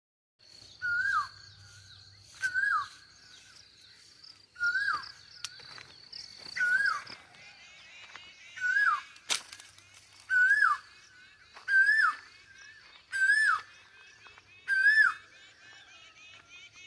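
A bird repeating a short whistled call about ten times, every second and a half or so, each note rising slightly then dropping sharply, over the steady high chatter of a flock of small birds. One sharp click about nine seconds in.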